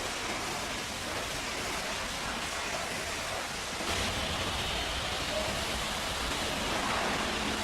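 High-pressure water spray hissing steadily against a truck during a wash, getting louder about four seconds in.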